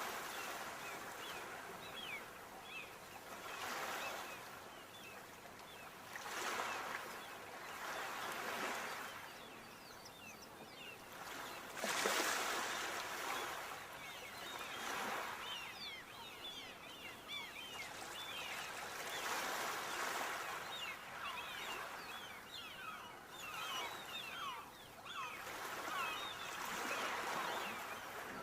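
Sea waves washing ashore in repeated surges every few seconds, the loudest one about twelve seconds in.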